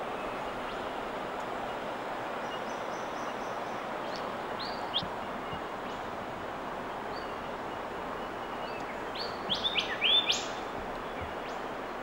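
Small birds chirping over a steady background hiss, with a pair of chirps about five seconds in and a quick run of louder chirps near the ten-second mark.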